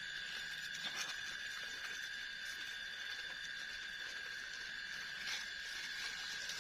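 Steady insect chorus in the forest, a continuous two-pitched drone of crickets or cicadas, with a couple of faint clicks or rustles about a second in and again near the end.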